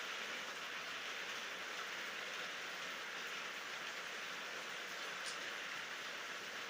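Steady rain falling, an even hiss with a few faint drop ticks, no thunder.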